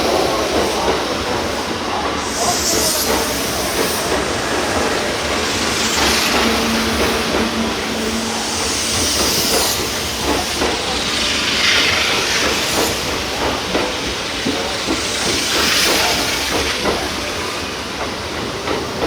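Electric train moving through a station platform, wheels clicking over rail joints under a steady rumble, with hissing swells that come and go every few seconds.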